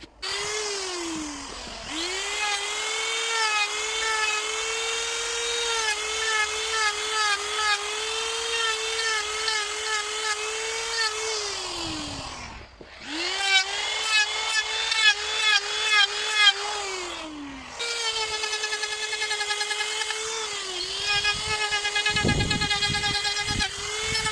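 High-pitched electric power tool motor running in four bursts. Each burst spins up quickly, holds a steady whine, and winds down in pitch when released. During the third burst there are sharp level jumps as it works the wood.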